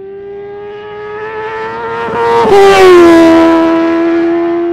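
A car engine at high, steady revs passing close by: it grows louder, and its pitch drops as it goes past about two and a half seconds in, then holds.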